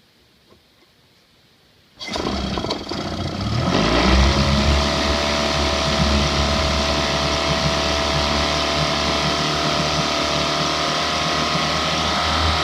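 Outboard motor pull-started: it catches suddenly about two seconds in, runs unevenly for a second or so, then settles into steady running.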